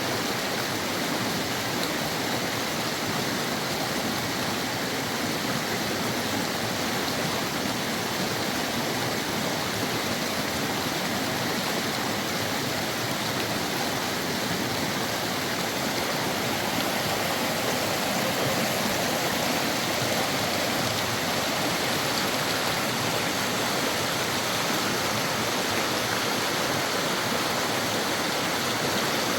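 Fast-flowing river water rushing steadily, a little louder in the last third.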